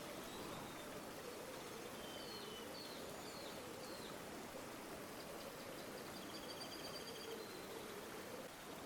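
Steady flow of a river, with small birds calling over it: a few short chirps about two to four seconds in and a rapid high trill around six to seven seconds.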